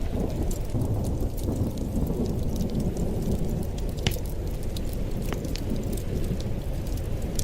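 Wood fire burning in a fireplace: a steady low roar with scattered crackles and pops, one sharper pop about four seconds in.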